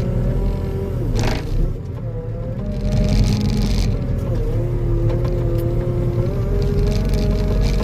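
Skid steer's diesel engine running while the grapple works, its pitch dipping and shifting a couple of times, with short spells of hissing noise.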